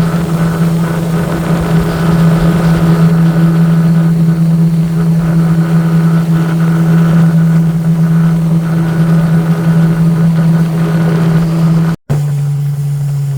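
Express boat engine running steadily at a constant speed, a loud, even drone with a fixed pitch. About twelve seconds in it cuts off abruptly and a lower steady hum follows.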